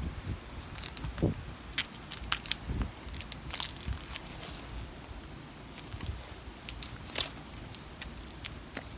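Stiff plastic from a plastic bucket crackling and snapping in scattered, irregular sharp clicks as it is cut into a filter frame.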